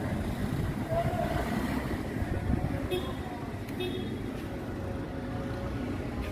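Steady rumble of road traffic, with two brief high-pitched chirps about three and four seconds in.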